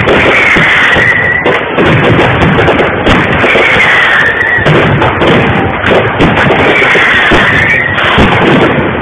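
Aerial fireworks exploding in quick succession with dense crackling, very loud throughout. A high whistle sounds three times, each about a second long.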